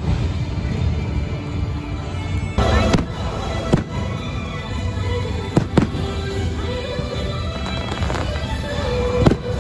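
Fireworks bursting with a handful of sharp bangs, over steady show music.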